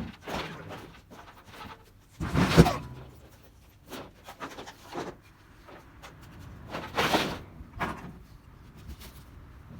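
Corrugated tin roofing sheets being handled and thrown, making irregular clattering knocks and scrapes. The loudest, heaviest crash comes about two and a half seconds in, with another around seven seconds.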